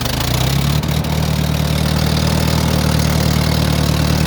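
Old 6-volt tractor engine, cold-started below freezing, just caught and running steadily. It picks up over the first half second, then settles into an even idle.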